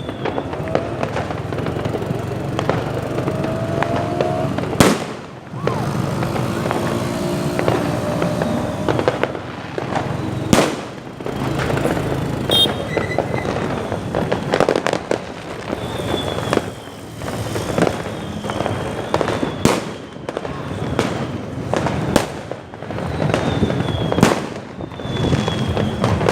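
Fireworks going off continuously in dense crackling and popping, with sharp louder bangs every few seconds. A few faint, high, falling whistles sound in the second half.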